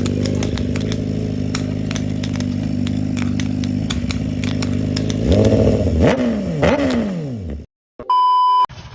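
An engine running steadily with scattered clicks, then revved up and down two or three times before cutting off suddenly. A short steady beep follows near the end.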